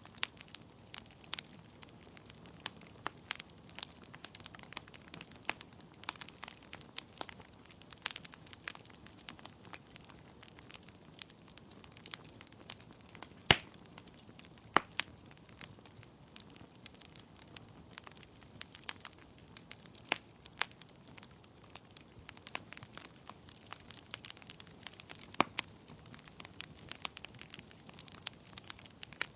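Wood fire in a fireplace crackling: irregular sharp pops and snaps from the burning logs over a faint steady hiss, with a few louder pops, the loudest about halfway through.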